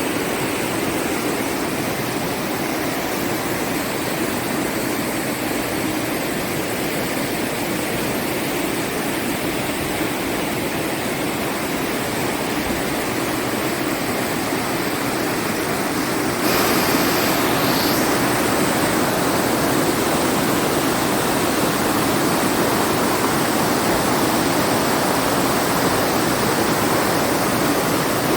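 River water rushing steadily. It gets louder and brighter suddenly about halfway through.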